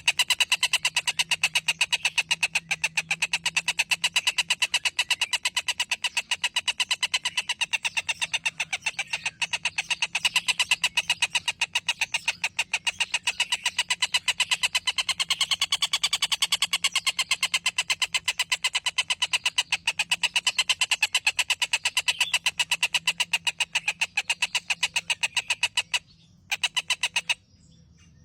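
Songbird trilling: a fast, unbroken run of short clipped notes, many a second, in the rapid repeated-note style that keepers call trotol. It breaks off briefly twice near the end.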